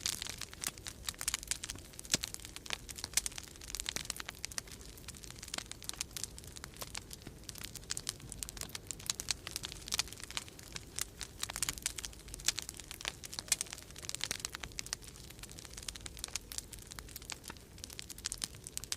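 Wood fire crackling in a fireplace: dense, irregular snaps and pops, over a steady low rumble of winter storm wind.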